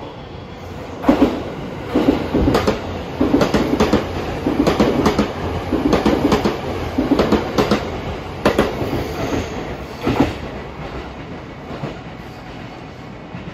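JR E257 series 5500 electric multiple unit passing through a station at speed, its wheels clacking over the rail joints in a rhythmic clickety-clack. The approach builds up first, the clacks start about a second in, come in groups about once a second, and fade after about ten seconds as the train moves away.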